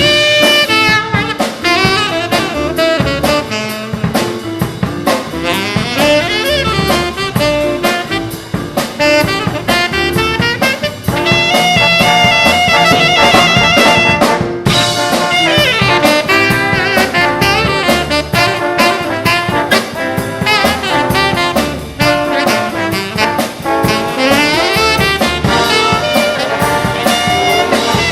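Live big band playing swing jazz: brass and saxophone section over a drum kit.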